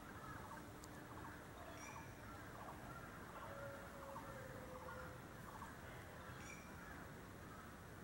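Faint bird calls over a quiet forest background: short chirps repeating through, with a brief low whistle sliding slightly down about three and a half seconds in.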